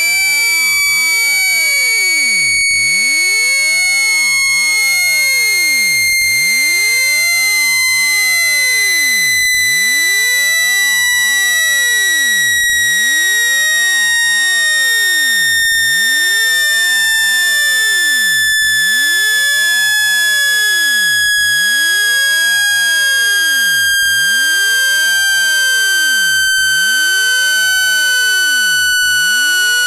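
Speaker-cleaning tone: a single loud electronic tone with overtones, gliding slowly and steadily downward in pitch. It is played to shake dust out of a phone speaker.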